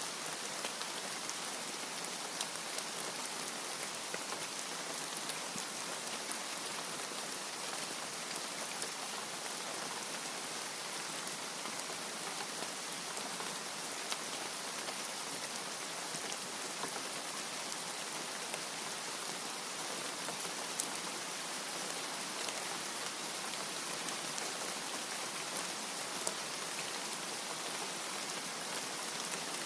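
Steady rain falling, an even hiss with scattered small ticks of individual drops.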